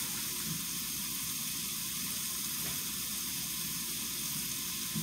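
Hamburger patties sizzling steadily in a frying pan.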